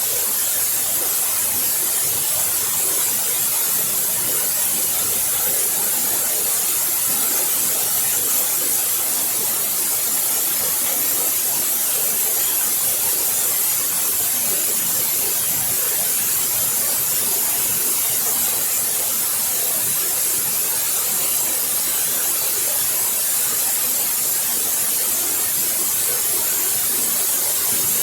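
Waterfall splashing: a steady rush of falling water, bright and hissy, unchanging throughout.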